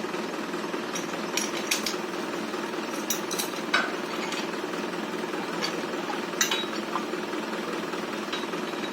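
Tractor engine running steadily, with a few short sharp clicks and knocks at irregular moments.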